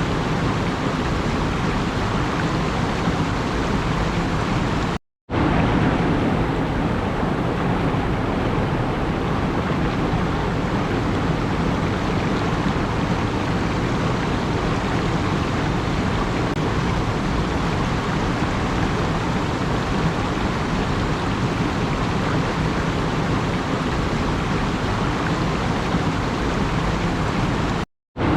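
Steady, even rushing noise with no distinct events, cutting out to silence for a moment about five seconds in and again near the end.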